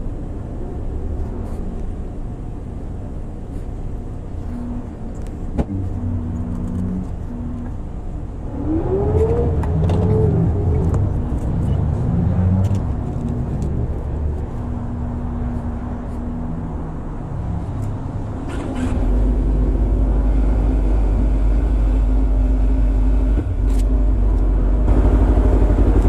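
Motor vehicle engines running and passing, with a rise and fall in engine pitch a little before halfway. About two-thirds of the way in, a steady low engine hum starts suddenly and holds.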